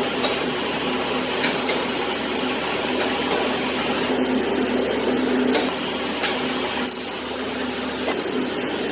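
Steady hum of engine assembly-line machinery, with a sharp click about seven seconds in.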